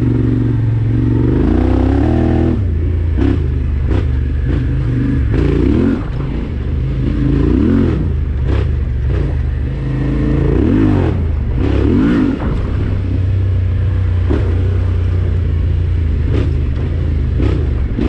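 Yamaha Ténéré 700's parallel-twin engine riding a muddy trail, its revs rising and falling again and again, with sharp knocks scattered throughout as the bike hits bumps and the suspension bottoms out.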